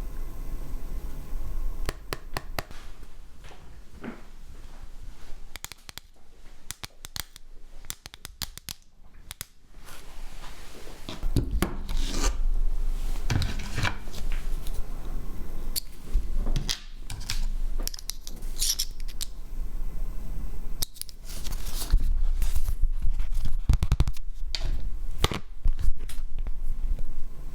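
Close-up scratching, scraping and sharp clicks of small hand tools working on a Samsung Galaxy S10e smartphone, in irregular bursts with a quieter stretch early on.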